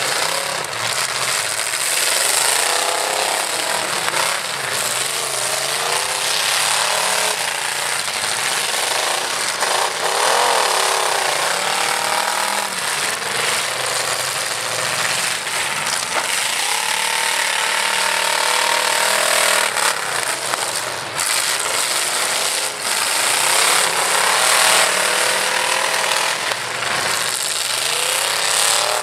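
Several demolition derby trucks' engines revving hard at once, their pitch rising and falling as they push and ram each other, with occasional bangs of impacts.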